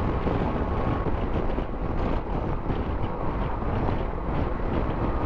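Steady wind rush over the rider's helmet microphone, with a motorcycle's engine and road noise underneath, riding at road speed.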